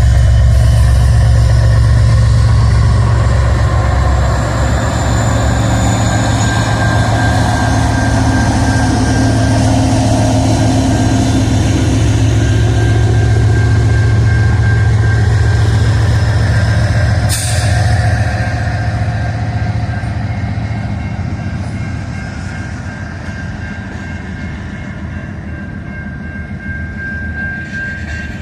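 Freight train passing, its diesel locomotive engines running with a loud steady low drone and the rail cars rolling by. There is a single sharp knock at about 17 seconds, and the sound gradually fades over the second half.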